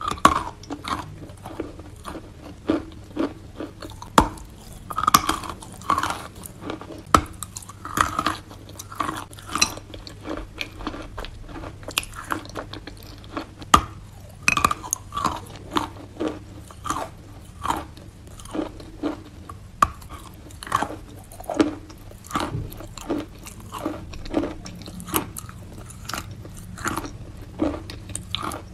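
Close-up biting and chewing of wet sawn chalk: sharp crunches as pieces snap off, then gritty, crumbly chewing, in irregular bites about one or two a second.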